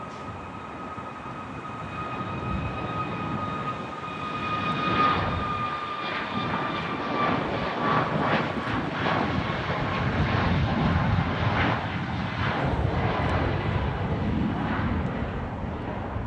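Jet airliner passing close, its turbofan whine slowly falling in pitch while the engine rumble builds, peaking about five seconds in and staying loud.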